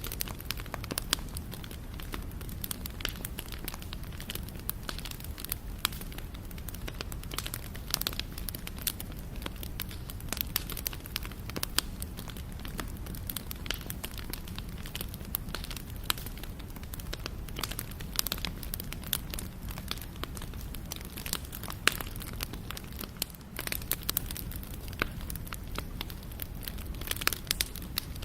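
Wood fire burning: a steady low rumble with frequent sharp crackles and occasional louder pops of burning wood.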